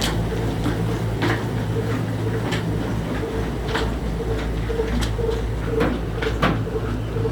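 Slow-running single-cylinder 22 hp 'black' diesel engine (300 rpm) running steadily, with a low drone and a sharp knock about every second and a quarter.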